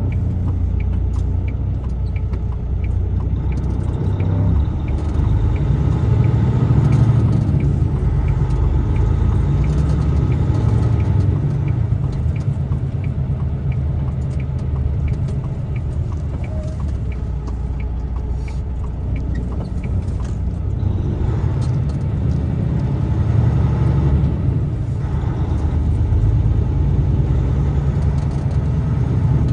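Road and engine noise of a truck being driven, a steady low rumble that swells louder twice. A regular light ticking, about two a second, runs through the first few seconds.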